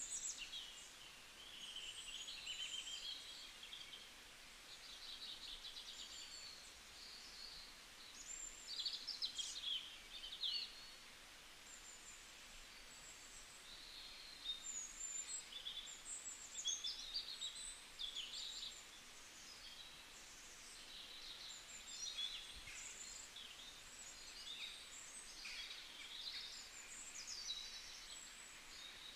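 Birds chirping and singing, a near-continuous run of quick high notes and trills, faint, over a steady background hiss of outdoor ambience.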